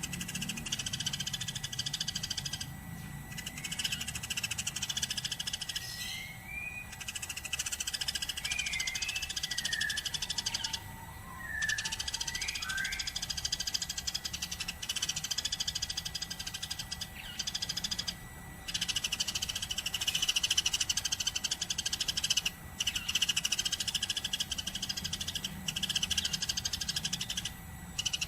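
Eurasian tree sparrow chattering non-stop in long, very rapid runs broken by short pauses every few seconds. A few separate sliding chirps come about a quarter to halfway through.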